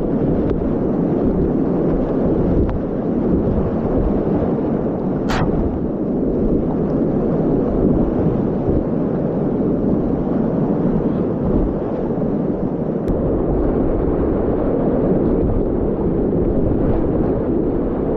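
Whitewater rapids rushing, loud and steady with a heavy low rumble from water buffeting the camera microphone, and one short sharp click about five seconds in.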